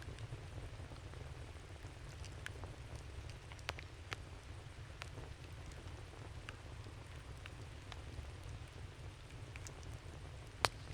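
Burning wood in a campfire crackling: a steady low rumble under scattered sharp pops, the loudest one near the end.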